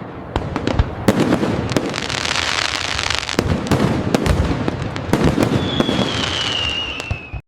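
Fireworks going off: a rapid run of sharp bangs over dense crackling, with a thin whistle sliding down in pitch for about two seconds near the end.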